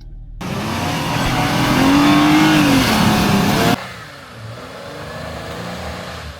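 Off-road 4x4 engine revving hard over a loud rushing noise, its pitch rising and then falling. It cuts off abruptly about three and a half seconds in to a quieter running engine.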